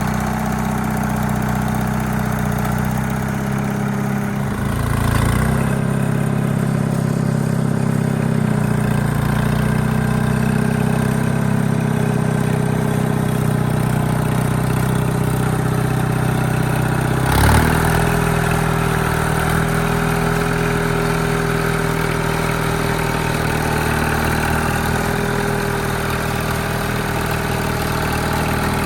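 Allis-Chalmers HD5 bulldozer's GM 2-71 two-cylinder two-stroke diesel running steadily, with a low thump about five seconds in and a sharp metallic knock about seventeen seconds in, after which the engine note shifts slightly.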